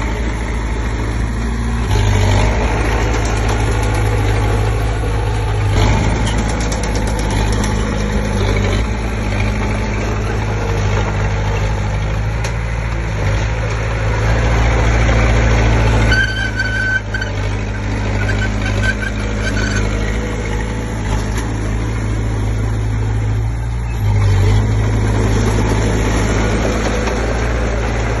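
Komatsu D20P bulldozer's diesel engine running steadily, its note rising and falling a few times as the load changes while it pushes soil. A few short high squeaks come near the middle.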